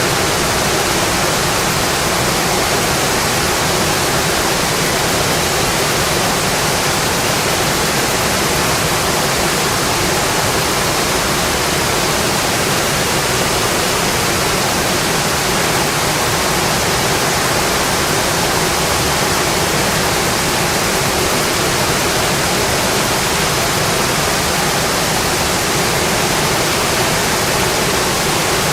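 Steady rain, an even hiss that holds at one level without breaks.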